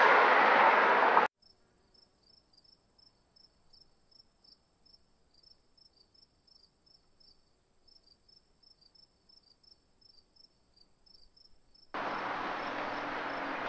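Near silence, with only a faint thin high tone and faint high chirps about three a second. A loud steady hiss-like noise cuts off suddenly about a second in, and another steady noise starts abruptly near the end.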